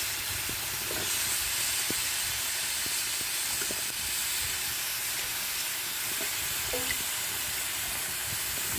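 Sliced potatoes and radish sizzling in hot oil and masala in a kadhai: a steady frying hiss with a few faint ticks.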